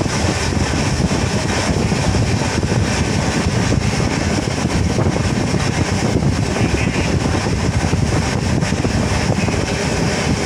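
Steady running noise of a moving train with wind rushing past, heard at the coach window.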